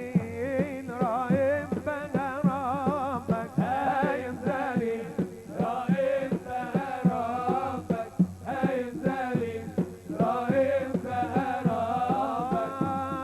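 Live Middle Eastern wedding music: a lead melody with heavy vibrato over a fast, steady drum beat, settling onto a long held note near the end.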